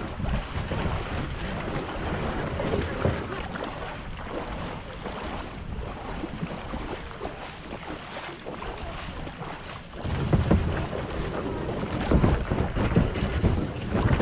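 Wind rumbling on the microphone over the wash of river water around a kayak, gusting louder about ten seconds in.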